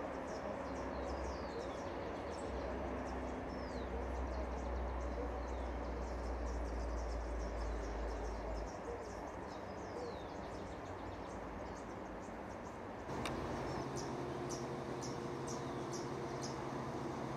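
Small birds chirping, many short calls and quick falling whistles, over a steady background hiss. A low hum drops out about nine seconds in, and the background changes abruptly with a click about thirteen seconds in.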